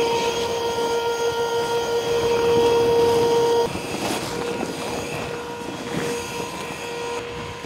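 A steady motor hum over a rushing noise; the hum drops sharply about three and a half seconds in, then goes on more weakly.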